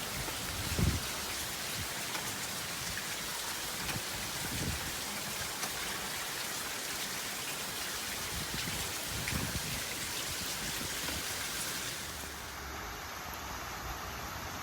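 Steady rain from a tropical storm, an even hiss with a few brief low rumbles. About twelve seconds in, the sound turns duller.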